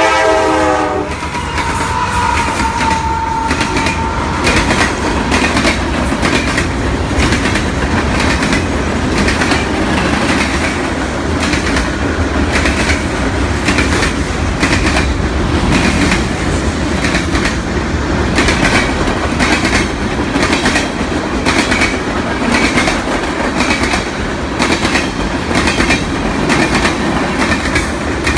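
A Nathan K5LA train horn's chord cuts off about a second in. Then a long CSX freight train's cars roll by with a steady clickety-clack of wheels over the rail joints.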